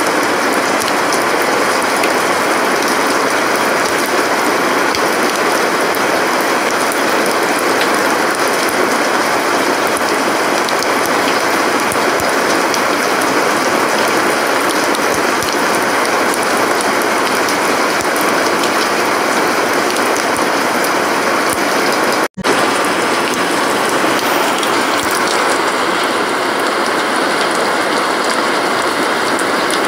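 Steady heavy rain, a dense even hiss with fine crackling drop impacts, broken by a momentary gap about three quarters of the way through.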